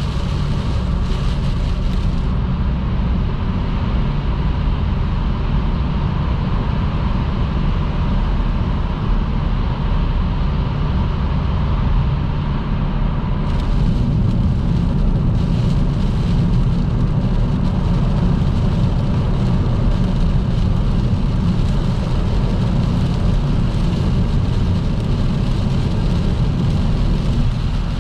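A car driving at motorway speed in heavy rain: a steady low rumble of tyres and road noise on the wet road. The higher hiss above it thins out from about two seconds in until about thirteen.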